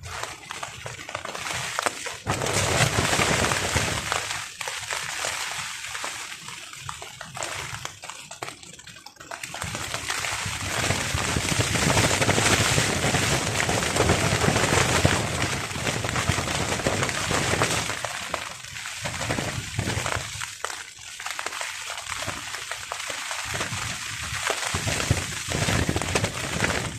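Rain drumming on a tarp in strong wind, the wind gusts swelling and easing in waves with a low rumble. The loudest gust runs through the middle of the stretch.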